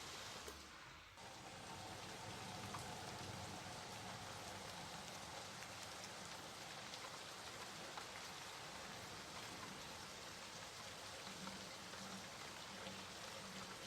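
Steady rain falling, a dense even hiss of drops with no letup, dipping briefly about a second in.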